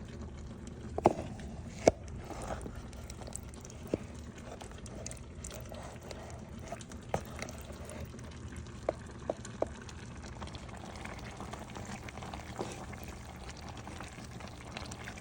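A big pot of chicken and vegetable soup bubbling on a stove, with a steady low hum under it. Scattered sharp clinks and knocks sound over it, the two loudest about one and two seconds in, then a few smaller ones.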